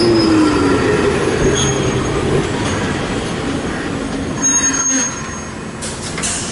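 Hiroshima Electric Railway streetcar moving past on street track, its motor whine falling in pitch during the first second over a steady rolling rumble. The rolling noise eases off about five seconds in, and a couple of sharp clacks come near the end.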